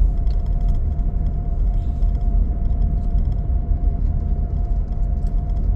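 Car driving along: a steady low engine and road rumble with a faint steady hum above it.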